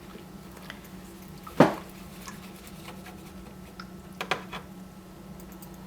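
Watercolour painting gear being handled: one sharp knock about a second and a half in, then a few lighter clicks near the end, over a steady low hum.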